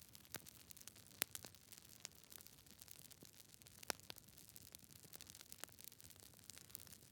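Campfire crackling: scattered sharp snaps and pops of burning wood over a faint low hiss, the loudest pops a little over a second in and about four seconds in.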